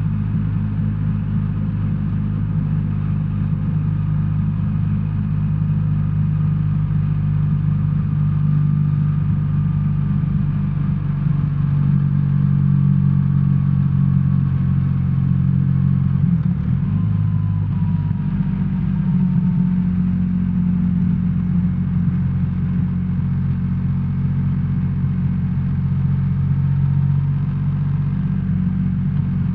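BMW R1300R's boxer twin engine running steadily while riding, heard from the rider's seat. A little past halfway its pitch briefly dips and changes, then it runs on steadily.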